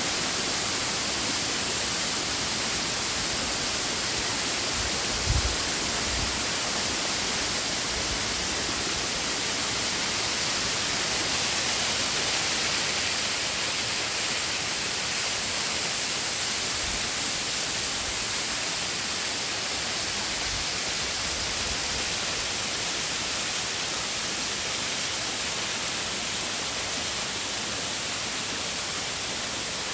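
Steady rush of a waterfall's cascades: an even, unbroken hiss, brightest in the highs. Two brief low bumps come about five and seven and a half seconds in.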